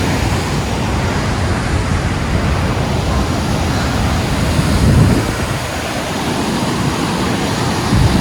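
Strong wind buffeting the microphone: a steady low rushing, with louder gusts about five seconds in and again near the end.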